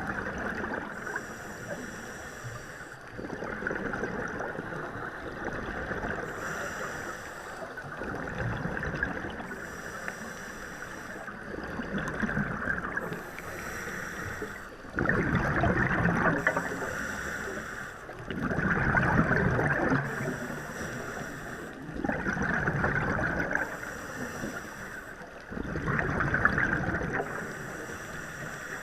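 Water rushing and splashing against a moving boat, swelling in louder surges every three to four seconds in the second half.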